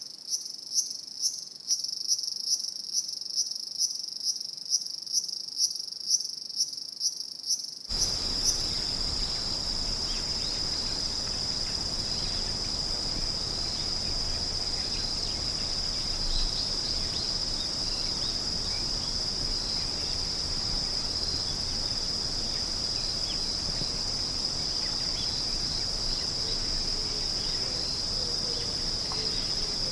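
Crickets chirping: a high-pitched chirp repeated about twice a second, then about eight seconds in the sound switches abruptly to a steady, unbroken high trill of insects over a faint hiss.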